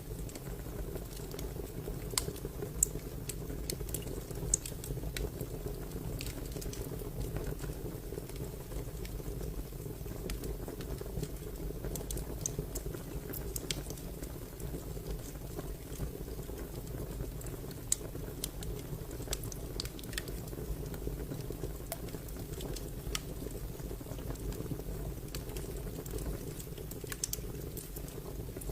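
Fire crackling: irregular sharp pops and snaps, a few louder than the rest, over a steady low rumble.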